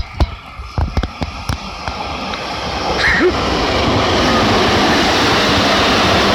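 Train on the Tokaido Main Line passing close by, a rushing rolling noise that swells over the first few seconds and then holds steady and loud. A few sharp knocks sound in the first second and a half.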